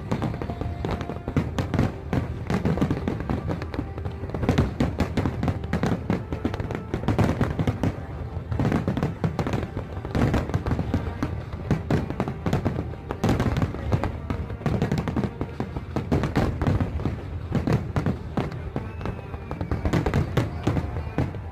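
A fireworks display: a dense, continuous run of shell bangs and crackles, many bursts a second, with music playing underneath.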